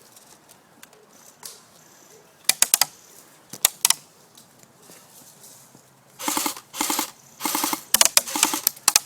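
Airsoft guns firing: a couple of short bursts of rapid clicks about two and a half and three and a half seconds in, then longer runs of full-auto fire with a steady mechanical hum under the clicks from about six seconds in.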